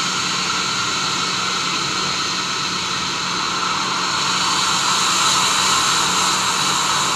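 Boeing 737-800 jet noise from its CFM56 turbofan engines and rushing air: a steady hiss with a few faint steady tones, growing louder about four seconds in.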